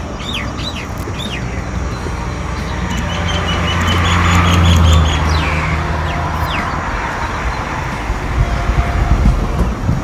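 Birds calling: a few quick whistled sweeps in the first second or so, then a rapid run of repeated high notes about three to five seconds in. Underneath is a low rumble that swells to its loudest about five seconds in and then fades.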